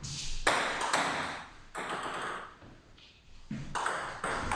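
Table tennis ball being struck by bats and bouncing on the table during a rally, a string of sharp hits with a short lull in the middle.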